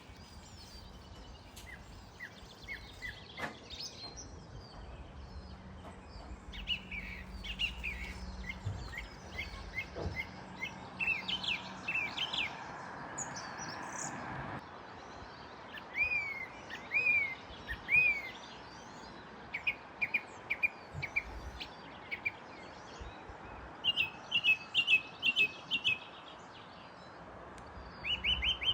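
Small songbirds singing: repeated short high chirps and quick trills, some in runs of several notes, over a faint steady background.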